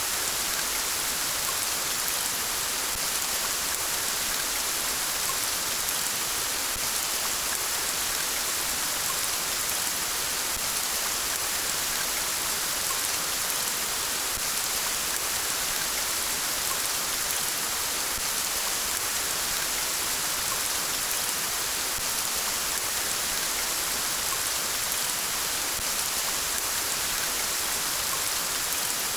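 Steady rainfall, an even hiss of drops falling without letup.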